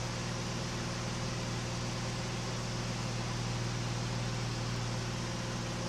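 KR2 light aircraft's engine and propeller droning steadily at cruise power, set to about 2,400 rpm, with a hiss of wind noise, heard from inside the cockpit.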